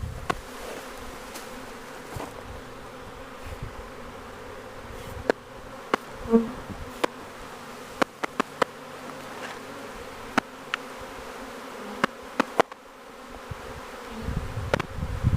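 Swarming honey bees buzzing in the air, a steady hum with scattered sharp ticks.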